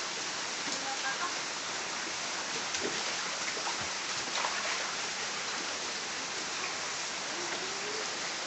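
Steady rain falling, an even hiss of drops on water and the ground.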